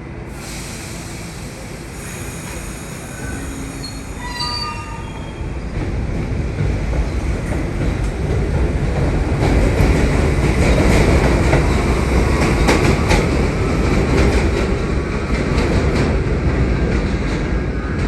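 New York City subway train approaching on the elevated line, growing steadily louder, with brief high wheel squeals early on. Once it is close, its wheels click rapidly over the rail joints as the cars run past.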